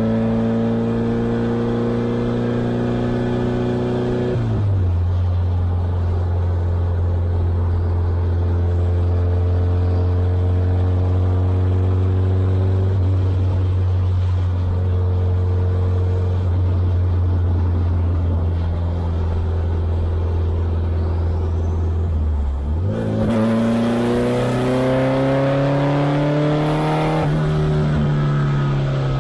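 Subaru-swapped VW Beetle's engine heard from inside its stripped cabin. The revs climb, then drop at a gear change about four seconds in, and the engine holds a steady cruising note for a long stretch. Near the end it pulls up in pitch again under acceleration, with another shift.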